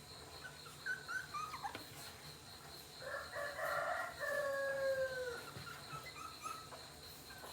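A rooster crowing once, starting about three seconds in and lasting a little over two seconds, its pitch dropping at the end. A few short chirps come before it.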